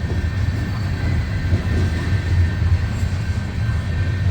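Loaded coal hopper cars of a freight train rolling past, with a steady low rumble of wheels on the rails.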